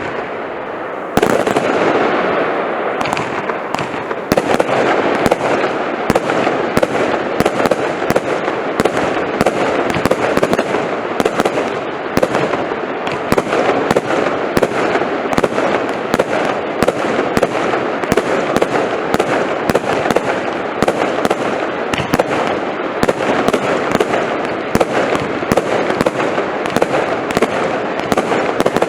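A compound firework cake (F3 category) firing continuously: a rapid series of sharp shots, about two or three a second, over a dense crackle. There is a brief lull about a second in, followed by a louder shot.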